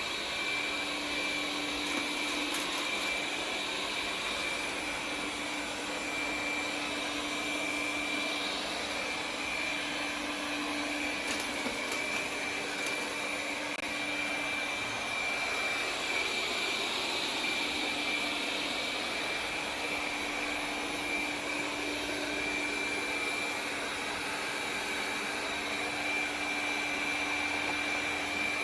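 Roidmi Eva robot vacuum running steadily through its sweeping and mopping run: an even whooshing hum with a constant high whine over it, and a few faint ticks partway through.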